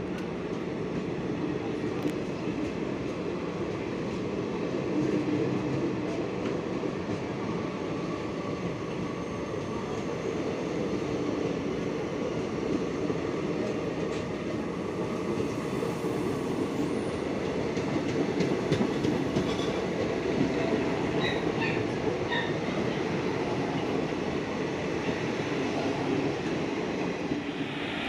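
A train rolling past on the track: a steady rumble of wheels on rail with clicking over the rail joints and a few brief high wheel squeals about two-thirds of the way through.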